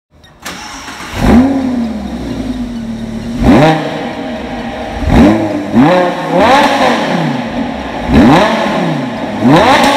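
Lamborghini Gallardo LP570-4 Superleggera's V10 engine and exhaust being revved while stationary: about seven quick throttle blips, each a sharp rise and fall in pitch, dropping back to a steady idle between them.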